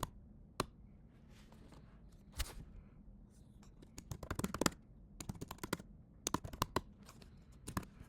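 Computer keyboard typing: keys clicking in quick runs, with two busier bursts in the second half and scattered single key presses between.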